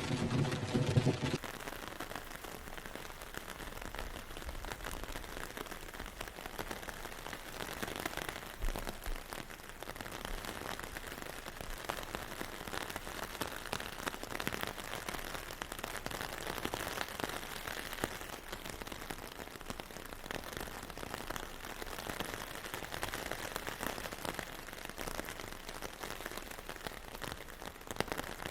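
Steady rain falling, a dense even patter of drops. For about the first second a low droning sound with a steady pitch sits under it, then stops abruptly.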